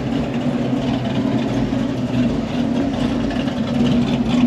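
A vehicle engine idling steadily at a low, even pitch, close by.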